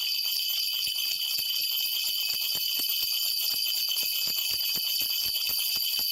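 Korean shaman's spirit bells (mubang-ul, a cluster of brass bells on a handle) shaken continuously in a fast, even jingling, about five shakes a second, rung to call the spirits for an answer during a divination.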